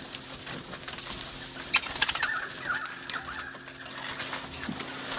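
Parrots close by while being hand-fed: a scatter of sharp clicks and fluttering, with a short warbling call about two seconds in.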